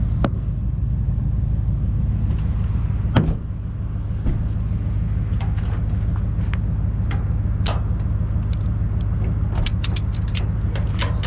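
Idling vehicle engine, a steady low rumble, with sharp clicks of tie-down ratchet straps being checked: a single loud click about three seconds in and a quick run of ticks near the end.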